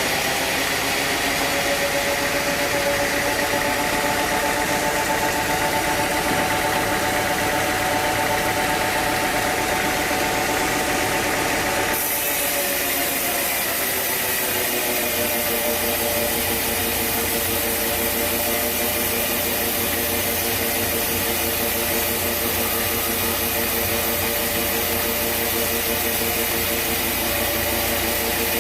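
Sawmill machinery running steadily, an engine-driven saw with a wavering hum over a constant noise. The sound changes abruptly about twelve seconds in.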